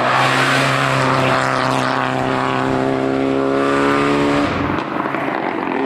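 Hill-climb race car engine held at high revs as it goes past, one steady note that eases slightly lower, then drops away about four and a half seconds in.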